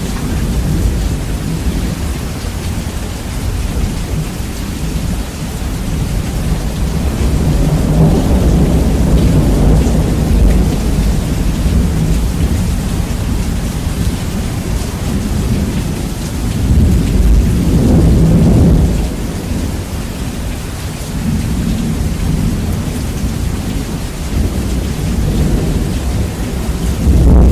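Steady heavy rain with thunder rumbling, in a heavily bass-boosted recording. The low rumble swells twice in the middle and again at the end.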